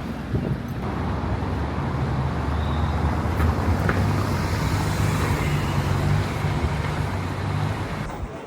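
Street traffic: a motor vehicle's engine hums steadily close by over road noise, cutting off abruptly near the end.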